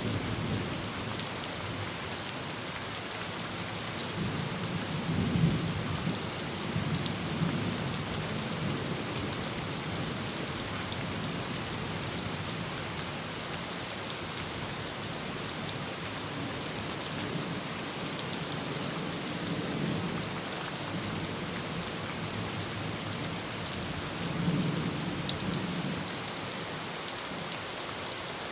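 Heavy rain falling steadily on a tin roof, a continuous hiss, with low thunder rumbling three times: a few seconds in, past the middle, and near the end.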